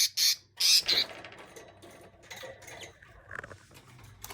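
Budgie giving two more loud, harsh squawks in the first second, then light scratching and rustling with a few small clicks.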